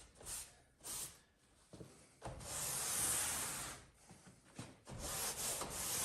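Damp rag wiped along a caulked seam between foam insulation boards: a couple of short swishes, then a long rubbing stroke about two seconds in, and another beginning near the end.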